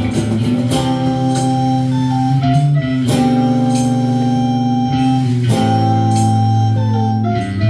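Live band playing an instrumental break: guitar over held low notes, with regular sharp hits. A falling run of notes comes twice, about a second in and again near the end.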